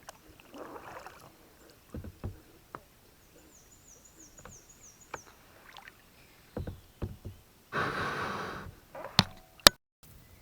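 Kayak paddling: dull knocks of the paddle against the hull and water noise, with a louder rushing burst about eight seconds in, followed by two sharp clicks.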